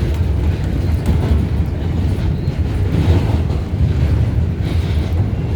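R188 subway car running between stations, heard from inside: a loud, steady low rumble of the train in motion.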